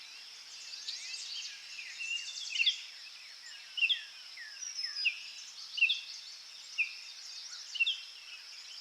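Small birds chirping, short sliding chirps roughly once a second, over a steady high hiss.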